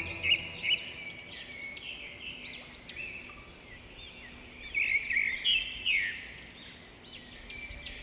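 Birds chirping, a steady stream of short, high, quickly repeated calls, busiest around five to six seconds in.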